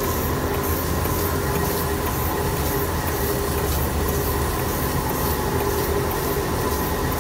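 Pipeline milking system running while a cow is milked: the vacuum pump's steady hum with the milker pulsator's rhythmic hissing pulse, about two a second.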